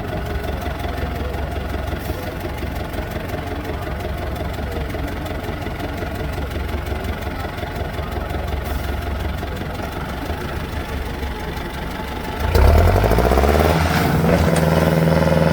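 Offroad truck's diesel engine idling steadily just after starting, then revved harder for the last few seconds, louder, its pitch rising and falling.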